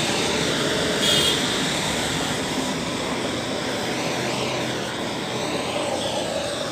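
Steady rushing blast of a heating tool playing on a lantern motor's metal body to expand it for fitting the stator. It cuts off abruptly near the end.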